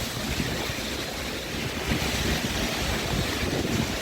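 Steady wash of rain and wet city street noise, with a low rumble underneath.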